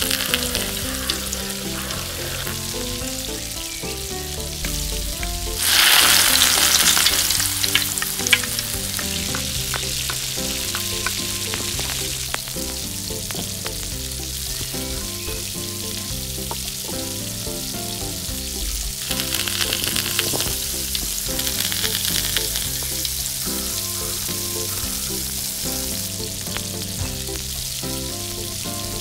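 Food frying in hot oil in a miniature pan: a steady sizzle that surges sharply about six seconds in, as something goes into the pan, and swells again about twenty seconds in, with small clicks of stirring. Soft background music plays underneath.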